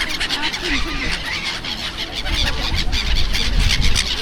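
A large flock of gulls calling all together: a dense, continuous chatter of many short, high squealing calls.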